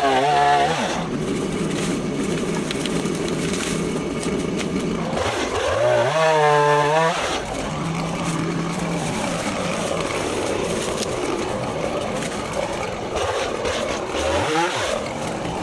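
Stihl MS 170 two-stroke chainsaw running. It is revved up high and back down three times: at the start, about five to seven seconds in, and near the end. In between it runs at a lower, rougher pitch.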